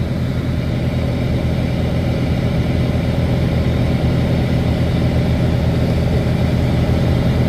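Heavy-truck diesel engine idling steadily, an even low rumble.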